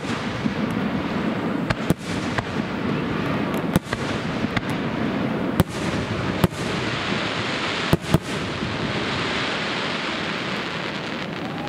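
Aerial fireworks display: sharp shell bursts every second or so at irregular spacing, over a continuous crackle of sparkling stars that thickens about halfway through.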